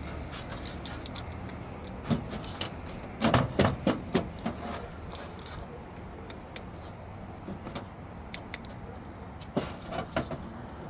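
Metal starter-motor parts being handled on a workbench: two bursts of sharp metallic clicks and knocks, the louder about two to four seconds in and another near the end.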